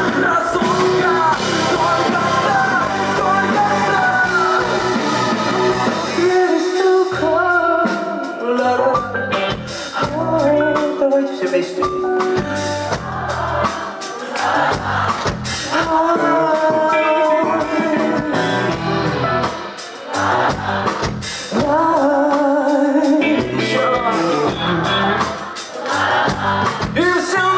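Live rock band playing, with a lead singer's voice over drum kit and guitar.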